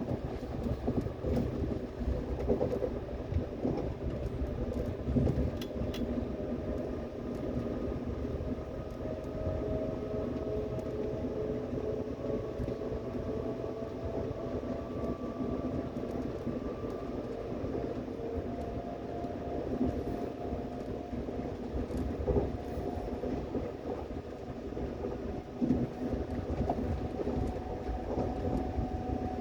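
Subway train running on the track, with a steady rumble and occasional knocks from the wheels. A motor whine climbs slowly in pitch throughout, as the train gathers speed.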